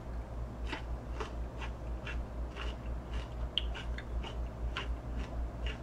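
Close-up chewing of a mouthful of food, with soft crunchy clicks about twice a second.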